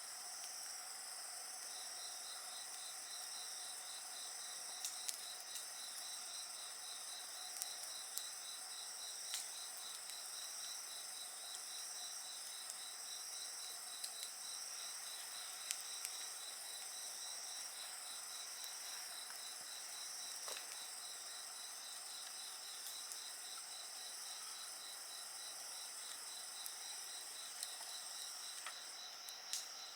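Several insects singing together in continuous high trills, one pulsing rapidly and steadily from about two seconds in, with occasional sharp crackles from a wood fire.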